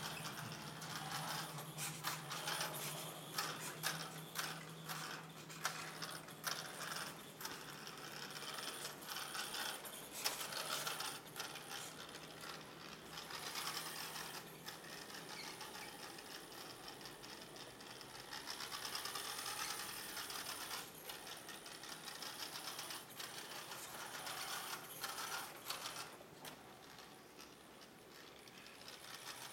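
Toy car's small gears and wheels whirring and clicking as it runs along, with a steady low hum through the first half.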